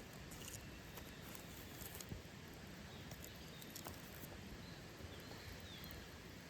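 Wood campfire burning quietly, with scattered faint crackles and pops over a low steady hiss.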